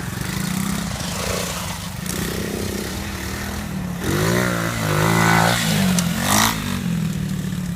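150cc pit bike engine running with a steady note. About halfway through it revs up louder, the pitch climbing, then drops back down.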